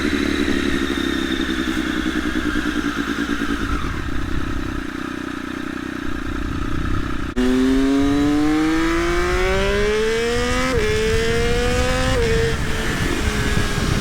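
Triumph Daytona Moto2's three-cylinder engine, not yet fully warm, breathing through a link pipe with the stock muffler removed. It runs steadily at first, then about seven seconds in it rises hard under acceleration, with two upshifts dropping the pitch about three and five seconds later, before it settles into a steady note in the higher gear.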